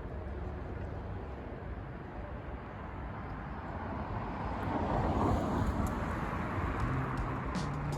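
Outdoor city traffic noise, with a vehicle passing and swelling loudest about five seconds in.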